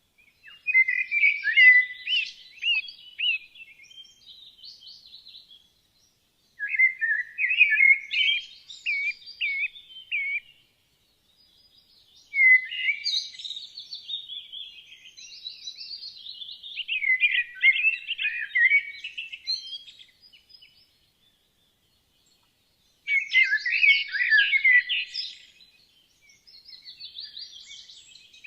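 Woodland songbirds singing: bursts of quick, varied, twittering phrases a few seconds long, separated by brief silent pauses.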